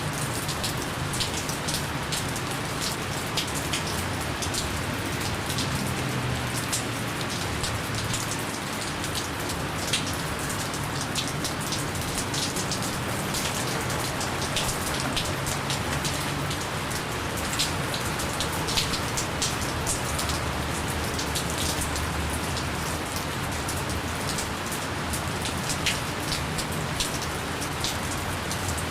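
Steady light rain falling, with many individual drops pattering close by. No thunder.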